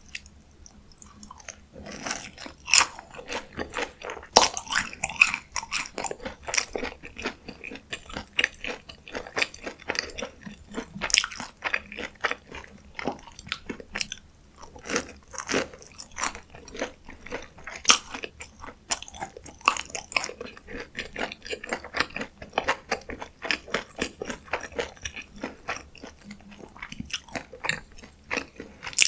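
Close-miked eating of crunchy fast food: crisp bites and steady wet chewing, with dense crackling crunches that start about two seconds in.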